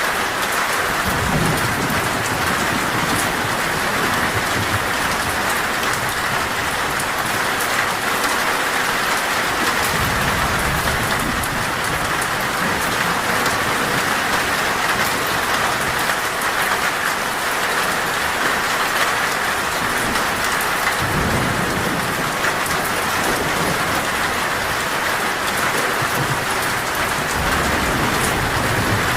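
Heavy rain falling steadily on a metal roof, an even hiss. Low thunder rumbles swell and fade about four times under it.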